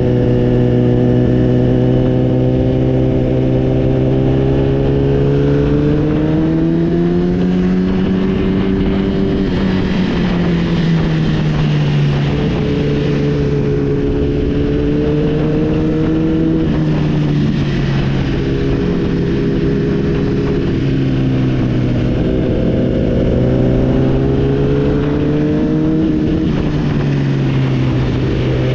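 Motorcycle engine running under way, its revs rising and falling several times with the throttle. The revs climb about six seconds in, ease off around ten seconds, and rise again near the end.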